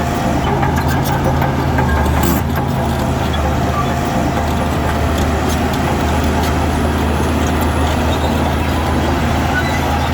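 Heavy diesel earthmoving machinery running steadily at work, a low even engine drone with a short knock a couple of seconds in.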